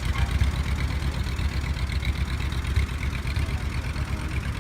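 Old tractor engine running steadily, a low, even chugging.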